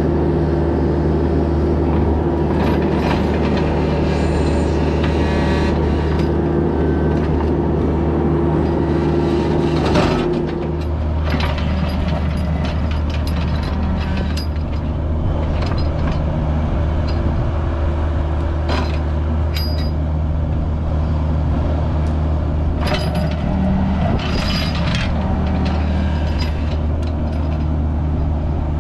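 Mini excavator's diesel engine running steadily under load, with scattered metal clanks and scrapes. The engine note dips briefly about ten seconds in, then picks up again.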